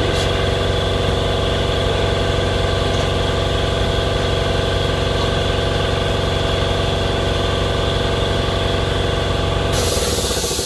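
A machine's motor or engine running steadily with a deep, even hum, then cutting off near the end.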